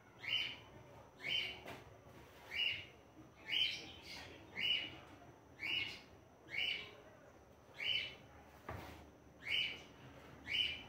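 A bird chirping, one short high call repeated evenly about once a second. A soft knock sounds once near the end.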